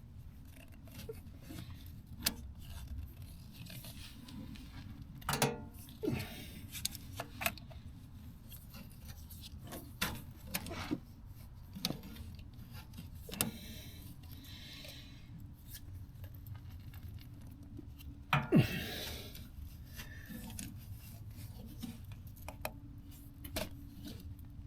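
Hand tools clinking and scraping against a stubborn motorcycle oil filter as someone works to break it loose: scattered clicks and knocks, with a louder scraping rattle about eighteen seconds in.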